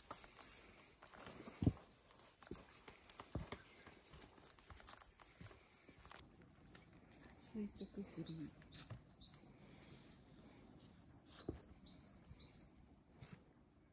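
A small wild bird singing: quick runs of six to eight short, high, down-slurred notes, repeated in several phrases a couple of seconds apart. A few faint knocks are heard in between.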